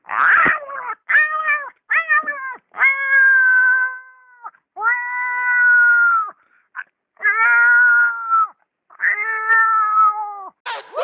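A human voice imitating a cat: a series of about seven meows, several of them drawn out for over a second, some dropping in pitch at the end.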